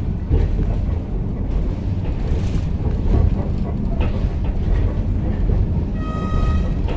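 Inside a moving airport shuttle train carriage: the steady low rumble of the train running along the track. A horn sounds for under a second near the end.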